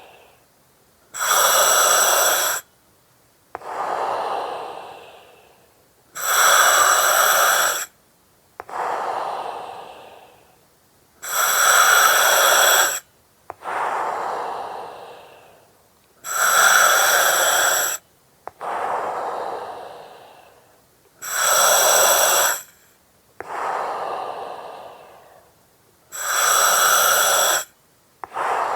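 Slow breathing through an oxygen mask. Each breath in draws a sharp hiss of gas through the mask's valve, which starts and stops abruptly, and each breath out fades away softly. There are six breaths, about one every five seconds.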